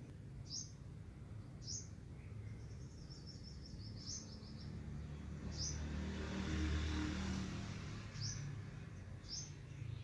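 Small birds chirping: short high chirps every second or two, with a quick trill about three seconds in. Under them a low hum, and a rumbling noise that swells to its loudest in the middle and fades again.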